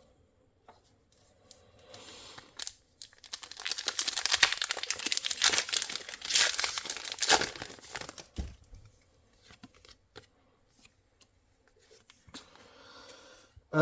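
Foil wrapper of a Pokémon trading card booster pack being torn open and crinkled, a dense crackling stretch of a few seconds in the middle, with lighter rustles before and near the end.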